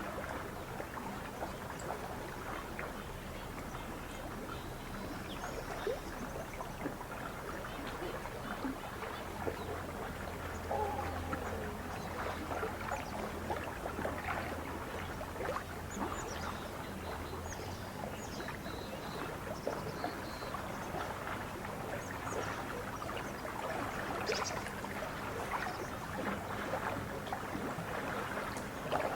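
Lake water lapping and splashing at the shore, with small irregular drips and slaps, while birds chirp now and then. A low steady hum joins about ten seconds in and fades out near the middle.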